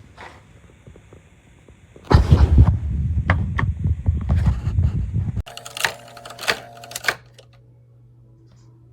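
Clattering and clicking, as of objects being handled: a loud rough rustle-and-clatter for about three seconds, then an abrupt change to a quicker run of sharp clicks over a steady low hum.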